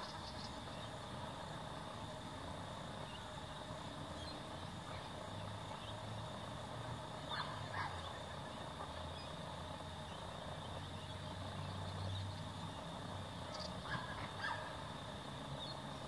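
Birds calling in two brief bursts, about seven seconds in and again around fourteen seconds, over a steady high thin drone and a low hum that swells through the middle.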